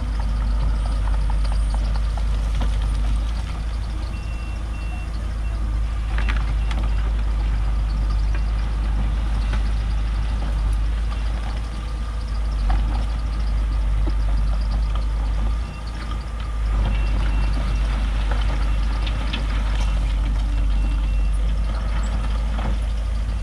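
Bulldozer's diesel engine running steadily under work, with scattered clanks and knocks. A reversing alarm beeps briefly about four seconds in, then again on and off through most of the second half.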